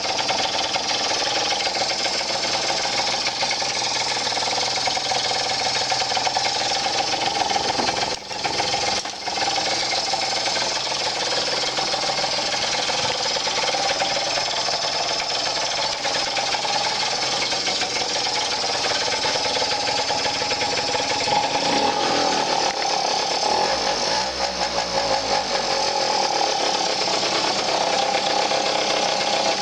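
A small engine running steadily, with a brief dip about eight seconds in.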